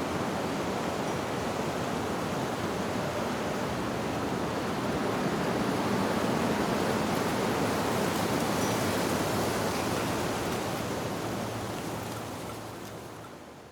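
Wind blowing steadily through tree leaves, an even rushing hiss, with a faint high wind-chime ping about two-thirds of the way through. The rushing fades away over the last couple of seconds.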